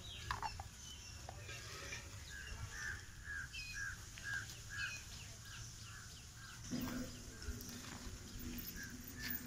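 A bird calling in a run of about eight short, evenly spaced notes that fade away. A low steady hum starts near the end.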